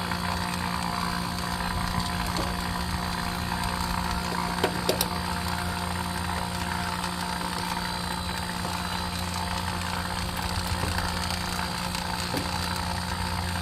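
A steady engine or motor hum, with a few light clicks about five seconds in.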